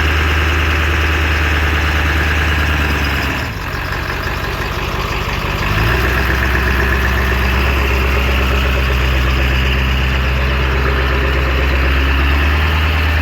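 Pickup truck engine running close by, steady at first, then easing off about three and a half seconds in and picking back up about two seconds later.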